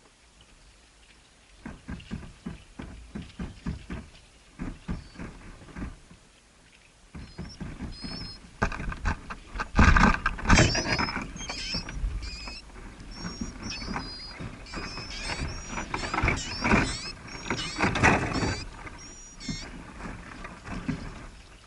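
Birds rustling and scratching with rapid clicks and knocks, then, from about seven seconds in, many short high-pitched squeaky chirps over the continued rustling.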